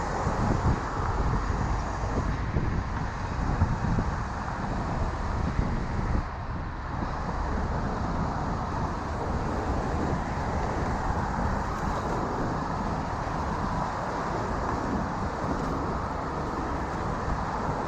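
Wind rushing over the microphone of a moving bicycle, with steady road traffic noise.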